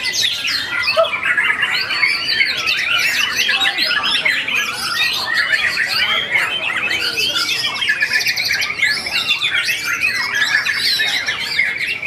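Several white-rumped shamas (murai batu) singing at once, a dense, unbroken tangle of overlapping fast whistled phrases and trills.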